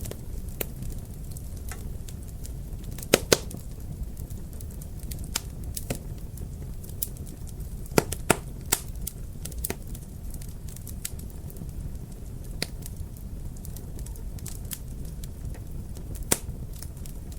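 Wood fire crackling in a fireplace: a steady low rumble with sharp pops scattered irregularly through it, the loudest pair about three seconds in, another cluster around eight seconds and a single loud pop near the end.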